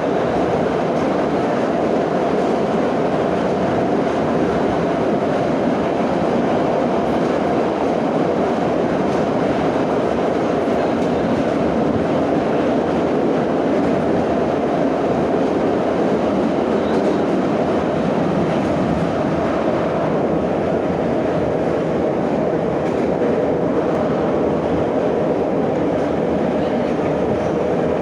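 Moscow Metro 'Nomernoy' (81-717/714) train heard from inside the car, running at speed between stations. It gives a steady, even rumble of wheels and running gear.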